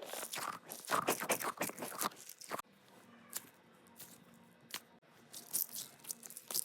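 Crunching, crinkling handling noise: a dense run of crackles for about two and a half seconds, then scattered single crackles.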